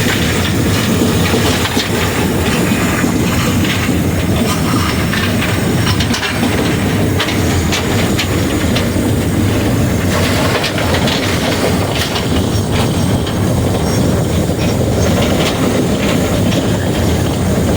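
Frisco 1630, a 2-10-0 steam locomotive, running down the line as heard from inside its cab: a loud, steady rumble and rattle with scattered clicks from the wheels on the track.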